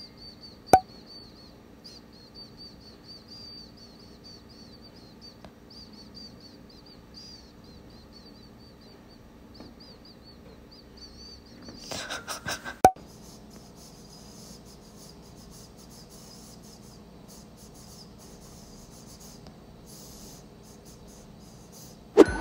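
Faint, high twittering of small birds, chirping continuously for the first twelve seconds or so. A sharp click comes just under a second in, and a short flurry of handling noise and another sharp click come about twelve to thirteen seconds in.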